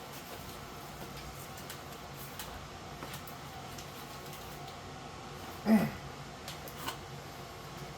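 Fiberglass insulation being pulled out by hand: faint rustling and light clicks over a steady low hum. About six seconds in there is one short squeak that drops in pitch.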